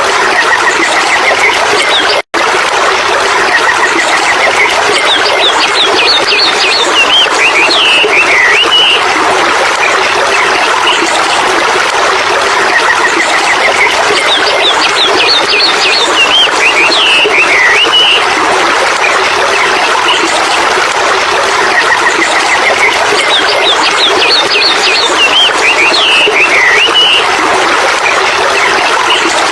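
A stream running steadily, with a bird singing over it: a rising whistled phrase followed by a quick run of chirps, the same phrase coming back about every ten seconds as in a looped recording. The sound drops out for an instant a little over two seconds in.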